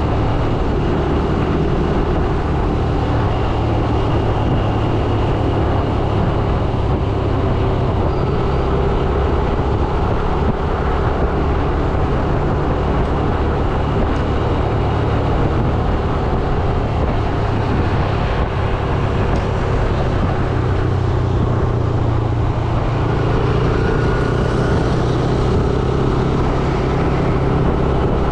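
Yamaha YBR 125G's single-cylinder four-stroke engine running steadily under way, with road and wind noise on the mic.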